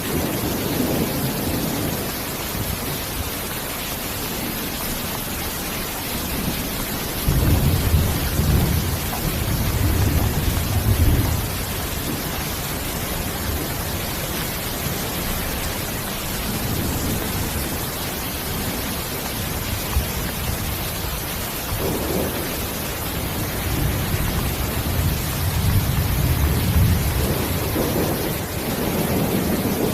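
Steady rain hissing, with low rolls of thunder: one about a quarter of the way in lasting a few seconds, and another building over the last third.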